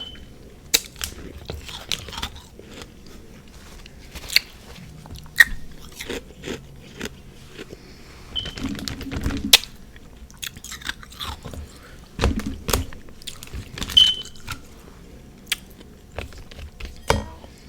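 Close-up chewing and biting of refrozen freezer frost mixed with powdered sugar and whipped cream: irregular crisp crunches, some sharp and loud, others softer, as the frozen mix is bitten through its hard and soft patches.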